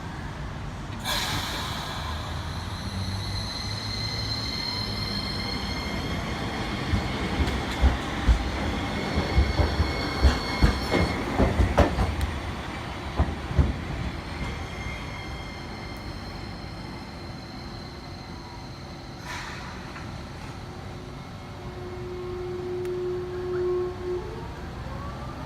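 Toyohashi Railway T1000 low-floor tram pulling away: high steady squealing from the wheels, and a run of heavy clunks in the middle as the wheels pass over rail joints and points. Near the end a motor whine rises in pitch as the tram gathers speed.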